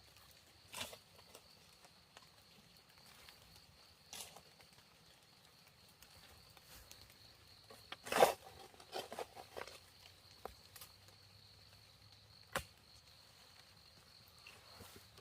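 Scattered knocks and rustles of hands working, the loudest a sharp knock about eight seconds in and another about twelve seconds in, over a faint steady high-pitched whine.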